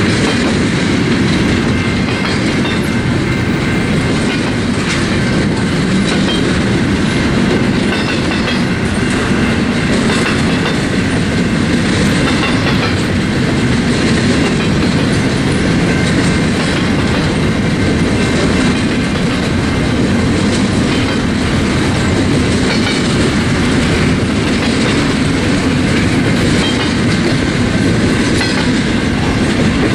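Freight train cars rolling past, a steady, loud rumble of steel wheels on rail that holds for the whole stretch.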